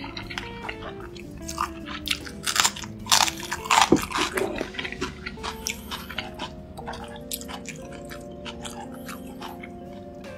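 Close-miked crunchy chewing and biting over steady background music, with the loudest crunches about three to four seconds in. The crunching thins out in the second half, leaving mostly the music.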